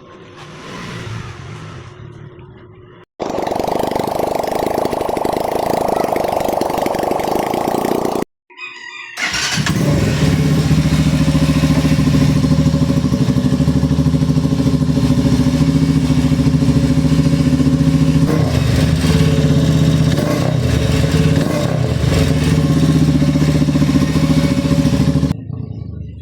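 SS-X200 motorcycle engine starting: a few seconds of loud, rough cranking and catching, then, after a short break, a long stretch of steady, even running that stops abruptly near the end. The bike runs again after a hard-starting fault and a crushed starter bendix drive.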